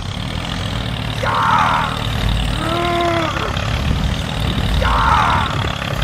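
Tractor engine sound running with a steady low rumble. Over it, a rising-and-falling pitched groan and a short hissy burst alternate about every two seconds.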